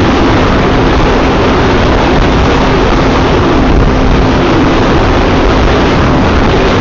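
Yamaha FZ V3 motorcycle cruising at highway speed: a loud, steady rush of wind and road noise with a steady engine hum underneath.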